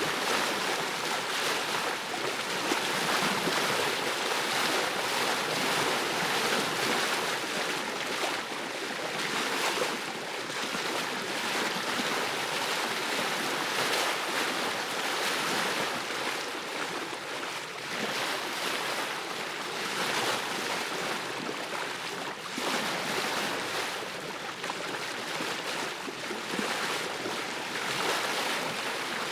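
Ocean surf washing onto a beach: a continuous rushing wash of waves that rises and falls a little in loudness.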